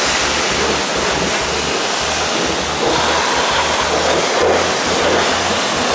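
High-pressure water spray hissing steadily against a truck at a truck wash.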